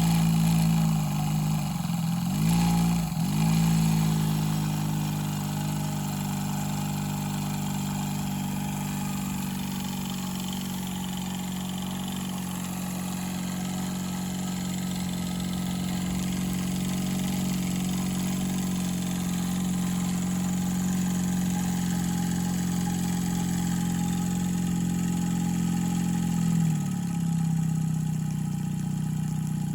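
Rocking Whale BL1K single-cylinder double-acting model steam engine running fast and steady with a continuous pitched hum. Its speed dips briefly twice about two to three seconds in and recovers, then dips once more near the end.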